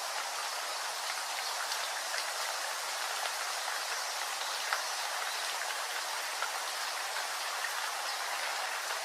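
Steady rain falling, an even hiss with many small drop ticks scattered through it, one slightly louder tick about four and a half seconds in.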